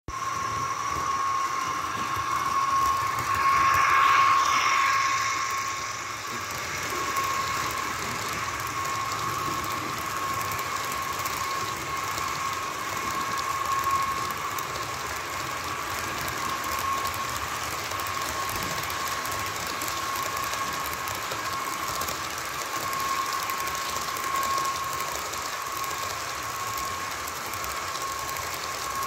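HO scale model train running on its track, its small electric motor and gearing giving a steady whine over a mechanical running noise; loudest about four seconds in.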